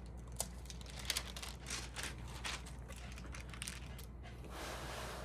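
Stamp album pages being handled: a run of light clicks and crinkles, then a longer, steady rustle near the end.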